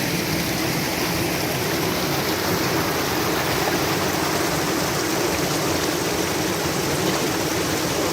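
Steady rush of a forest stream running over rocks.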